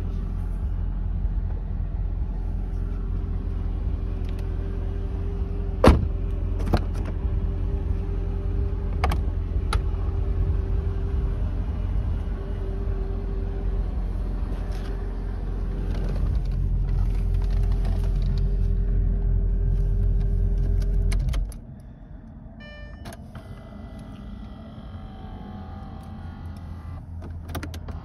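The Mercedes S55 AMG's supercharged V8 idles with a steady low rumble and a faint steady hum, under a few sharp clicks. About 21 seconds in the engine is shut off and the rumble stops suddenly, followed by a few short chime tones.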